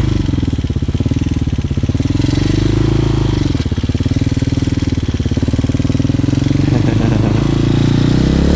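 Hawk 250 dual-sport motorcycle's single-cylinder engine running at low revs, its pitch wavering a little, then revs climbing near the end.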